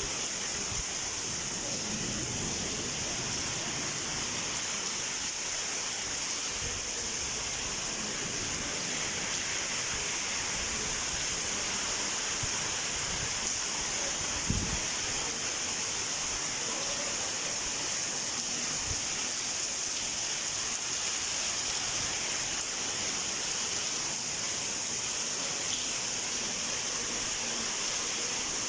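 Heavy rain falling steadily, a constant hiss, with one brief low thump about halfway through.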